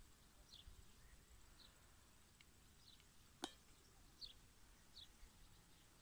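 Near silence outdoors, with faint, short, high-pitched bird chirps repeating about once a second and a single sharp click about three and a half seconds in.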